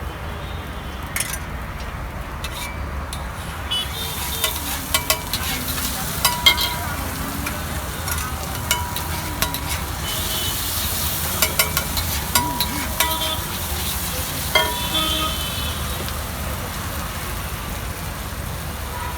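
Eggs frying and sizzling in a pan on a street-food stall, with a steady low hum underneath. Through the middle come a run of sharp clicks, the knocks of a cooking utensil against the pan.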